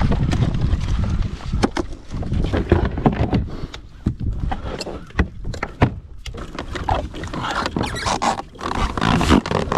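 Irregular knocks and clicks of fishing gear and fish being handled in a kayak, with wind rumbling on the microphone in the first couple of seconds.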